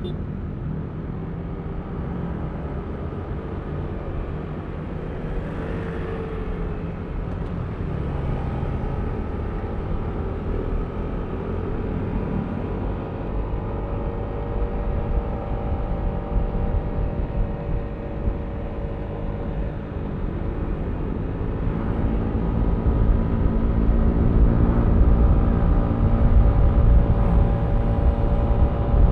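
Yamaha Aerox V3 scooter's single-cylinder engine running on the move, with a low wind rumble on the microphone. The engine note gets louder and clearer over the second half.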